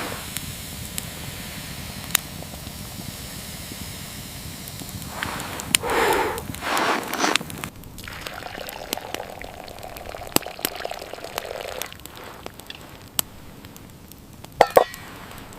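Campfire crackling with scattered sharp pops, with a few short bursts of rustling or handling noise partway through and near the end.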